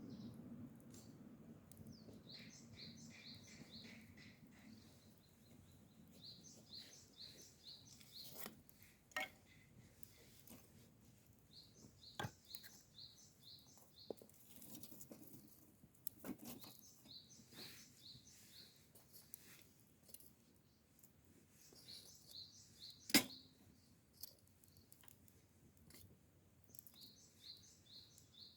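A songbird singing a short phrase of quick high notes, repeated every four to five seconds, over faint background, with scattered sharp clicks and taps, the loudest a single click about 23 seconds in.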